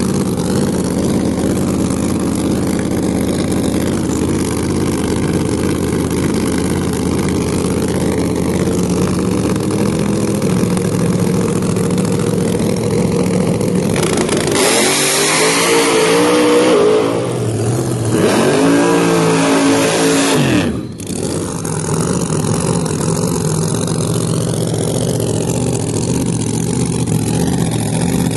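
Drag race car engines running with a steady low rumble. About halfway through, one car goes to full throttle: its pitch climbs, drops once as if for a gear shift, climbs again and cuts off sharply. Then the steady engine rumble returns.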